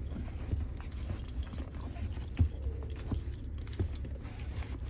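Light scuffling with scattered small clicks and taps as a pug puppy tussles with another pet over a toy.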